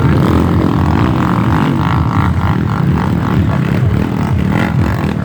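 Off-road trail motorcycle engine running loud and continuous, revving up and down.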